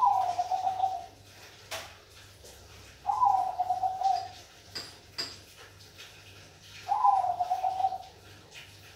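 Zebra dove (Bangkok-type perkutut) cooing: three rippling coos about three to four seconds apart, each starting higher and settling lower. A few sharp clicks fall between the coos.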